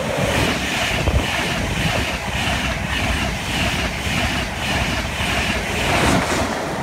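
InterCity 225 electric express (Class 91 locomotive with Mark 4 coaches) passing at speed without stopping: a steady rush of wheels on rail and air, with a regular beat about three times a second. It is loudest near the end, as the locomotive goes by.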